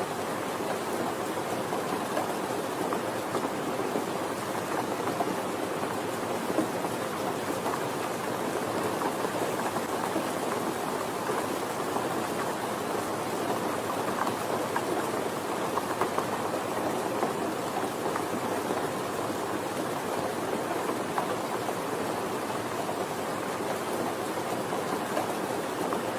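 Steady, gentle rainfall: an even hiss of rain with fine drop patter, without thunder or breaks.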